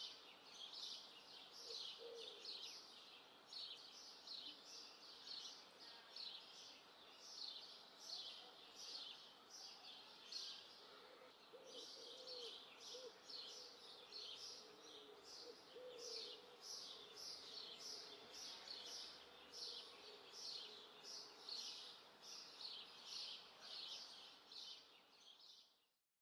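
Faint birds chirping: a short high chirp repeats about one and a half times a second, with softer, lower wavering calls now and then. It fades out near the end.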